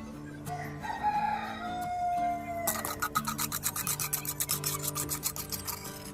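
A rooster crowing once, one long drawn-out call that falls away at the end, over steady background music. It is followed by a fast run of scratchy rasping strokes.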